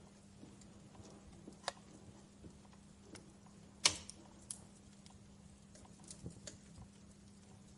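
Wood fire crackling in a fireplace: scattered sharp pops and snaps, the loudest about four seconds in, over a faint steady hum.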